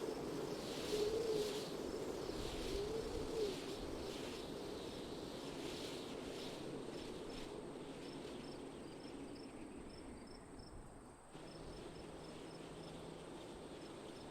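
Wind blowing, with a wavering howl that rises and falls over the first few seconds, then softer steady wind that dips abruptly about eleven seconds in. A regular series of short high chirps runs through it.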